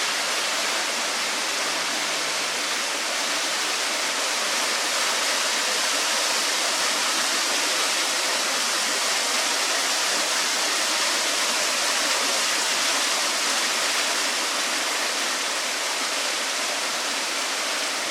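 Small waterfall in fast flow: water pouring and splashing in a steady, even rush with no break.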